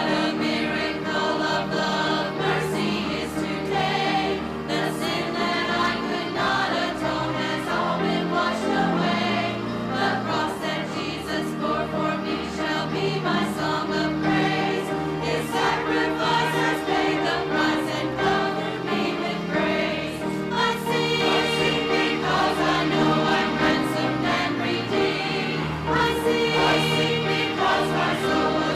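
Church choir singing a sacred piece, many voices holding and moving between sustained notes at a steady volume.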